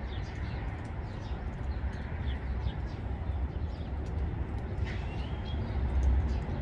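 Birds chirping over a steady low rumble, with one rising call about five seconds in.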